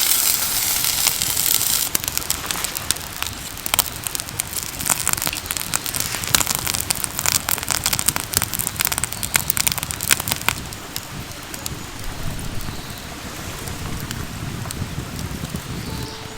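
Food frying over a wood campfire: a dense sizzle that drops away about two seconds in, then irregular crackling and popping that thins out after about ten seconds into a faint hiss.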